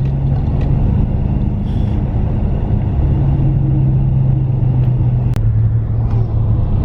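Steady road noise heard inside a moving car: a low engine hum and tyre noise, with a single sharp click about five and a half seconds in.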